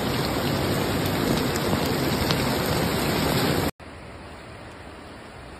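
Heavy rain pouring down, loud and steady. About two-thirds of the way through it cuts off abruptly to a much quieter, steady hiss of rain.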